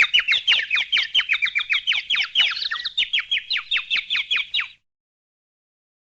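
A rapid series of high, bird-like chirps, each sliding quickly downward in pitch, about six a second. They cut off abruptly a little before the end.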